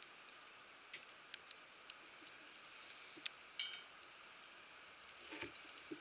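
Wood campfire crackling, with irregular sharp pops and ticks over a faint steady hiss, and a soft knock near the end.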